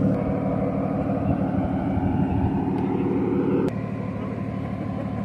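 Car engine running at low revs, a steady low rumble; about two-thirds through there is a sharp click and the sound drops to a lower level.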